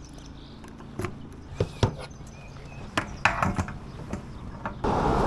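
Scattered knocks and clicks over a low steady hum. Near the end a louder, even rushing noise starts suddenly.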